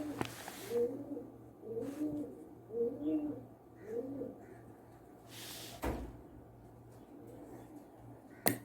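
A bird cooing in a run of low, repeated coos that stops about four seconds in, followed by a thump near six seconds and a sharp click near the end.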